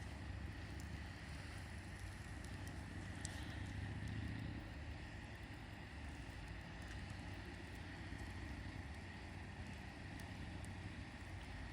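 Campfire burning: a steady low rumble with sparse, faint crackles.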